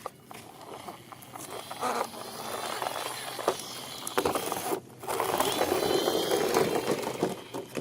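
Plastic toy vehicles rattling and clicking as they roll and are moved about, a continuous clatter of small clicks that grows louder in the second half after a brief pause just before the middle.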